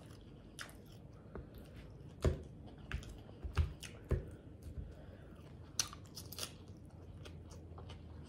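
Close-up chewing of Caesar salad with salmon: wet smacking mouth sounds and crunching of lettuce, broken by irregular sharp clicks as a metal fork picks through the plastic salad container.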